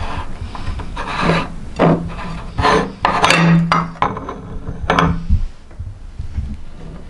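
Meat grinder grinding jelly candy: a series of rasping surges with a low hum beneath the loudest ones, stopping about five and a half seconds in.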